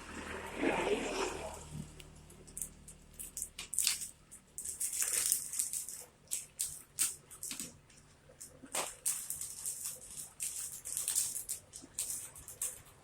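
Packaging being handled: irregular, crisp crackling and crinkling, like plastic wrapping being unwrapped.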